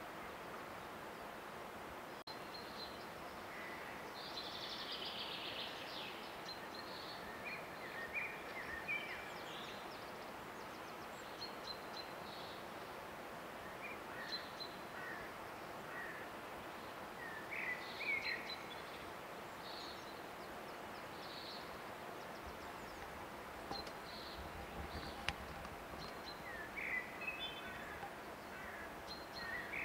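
Small birds chirping and trilling on and off over a steady outdoor hiss.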